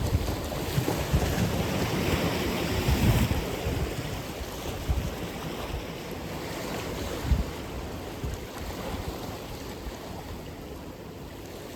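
Ocean surf breaking and washing in, loudest in the first few seconds and then easing off, with wind buffeting the microphone in low gusts.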